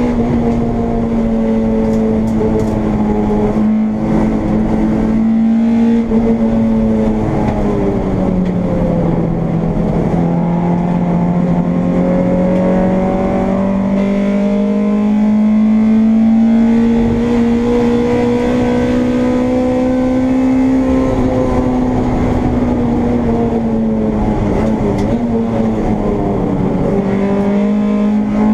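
Onboard sound of a Honda Integra race car's four-cylinder engine running at high revs, loud and steady. Its pitch drops about eight seconds in, climbs slowly back up over the next ten seconds, and dips and rises again near the end.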